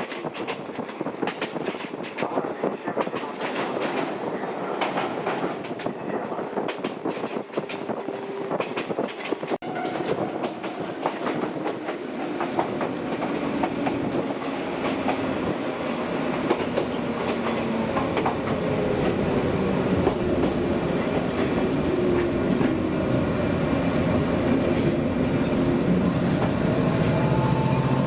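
Old JNR-type electric train running on the rails: wheels clicking over rail joints, with a humming motor tone that slides in pitch and grows louder through the second half.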